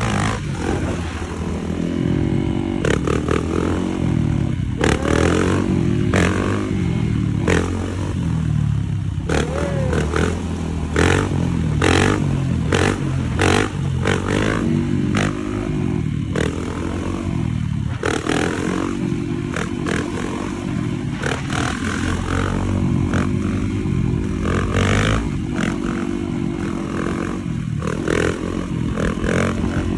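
Dirt bike engines revving up and down again and again, with many short sharp clatters mixed in.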